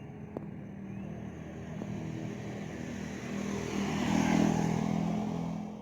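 Motor vehicle engine hum with road noise, growing louder to a peak about four seconds in as it passes close by.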